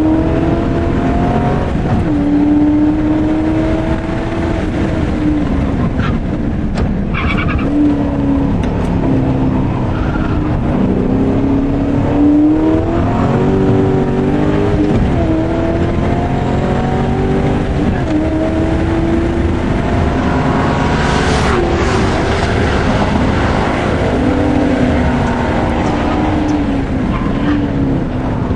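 Race car engine heard from inside the cabin, climbing in pitch under acceleration and dropping sharply at each gear change and braking, over and over through the lap. A short screech of tyre noise comes about three quarters of the way through.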